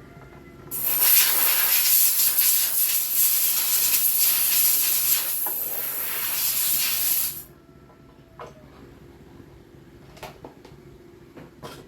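A loud hiss of a pressurised spray or air jet, lasting about seven seconds and cutting off suddenly, followed by a few light clicks.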